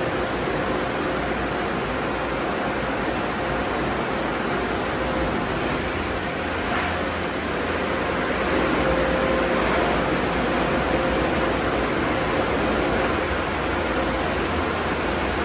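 Car wash drying system: a bank of high-powered air blowers running with a steady rushing blast of air and a faint steady motor hum, getting slightly louder about 8 seconds in.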